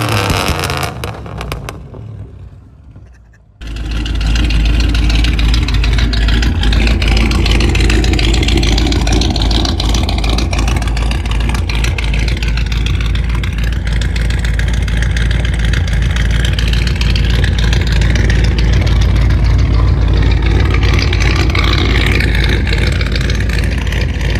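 Ford 302 V8 through dual straight pipes running with a loud, deep, steady rumble, cutting in abruptly about three and a half seconds in after an earlier sound fades out into a brief quieter gap.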